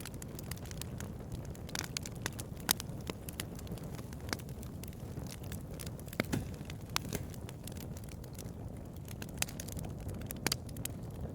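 Bonfire crackling: irregular sharp pops and snaps of burning wood over a low, steady rush of flames.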